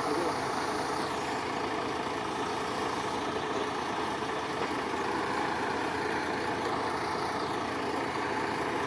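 Truck engine running steadily at an even speed.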